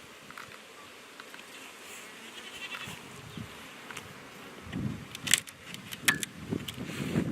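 Honey bees buzzing around an open hive, swelling louder now and then, with a few sharp clicks about five and six seconds in.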